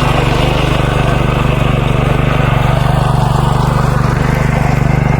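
Small engine of a walk-behind power tiller running steadily with a fast, even beat.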